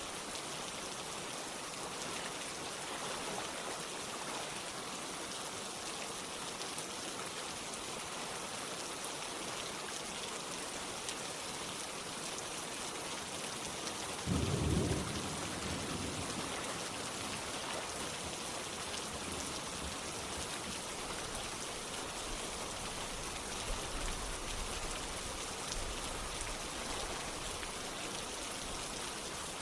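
Steady rain with running water. About halfway through comes a brief, louder low rumble.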